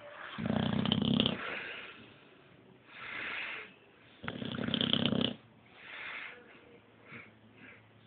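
Boxer dog snoring in its sleep: two loud snores about four seconds apart, with softer breaths between them.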